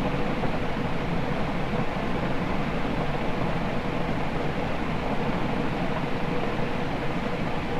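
Patton 56-inch industrial ceiling fan running steadily: an even rush of moving air with a faint steady hum.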